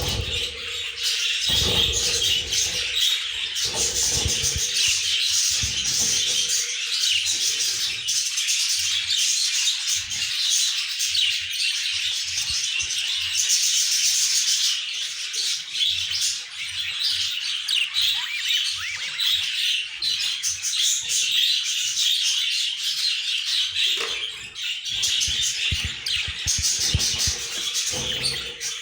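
Budgies chirping and chattering without a break, many calls overlapping, with occasional low knocks mixed in.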